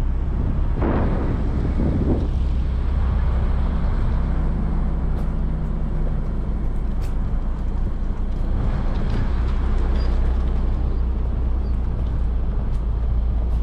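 Nissan Pathfinder driving on a forest road, with steady engine and road noise and swells of louder rushing noise about a second in and again around nine seconds.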